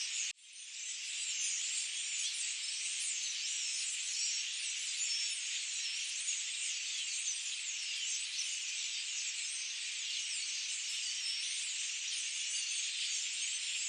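A dense chorus of many birds singing at once, a continuous high twittering of overlapping short calls. It cuts out abruptly just after the start and fades back in over about a second.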